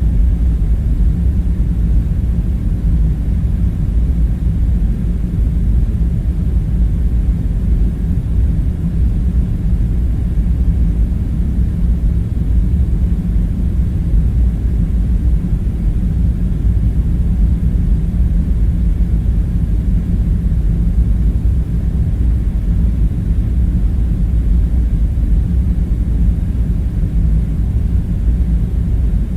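Steady low rumbling drone with faint hum tones in it, unchanging throughout, with no distinct knocks or other events: a continuous room-tone bed.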